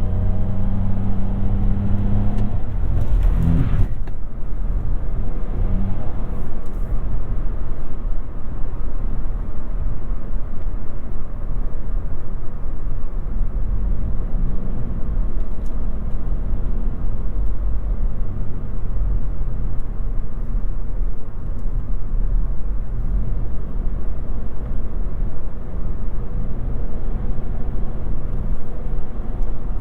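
A Toyota Yaris 1.5 Hybrid being driven. For the first couple of seconds a steady pitched drone from the drivetrain sounds, then a short rising tone about three seconds in. After that a steady low rumble of road and tyre noise carries on.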